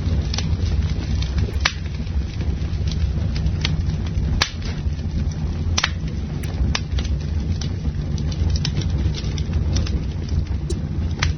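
Campfire burning: a steady low roar of flames with frequent irregular crackles and sharp pops of burning wood, a handful of pops standing out louder than the rest.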